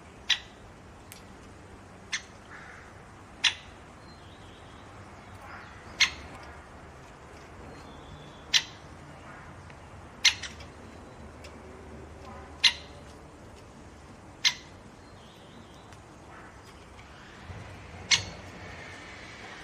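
Great spotted woodpecker giving its sharp single "kik" call, about nine times at irregular intervals of one to three seconds, with faint chirps from other small birds in the background.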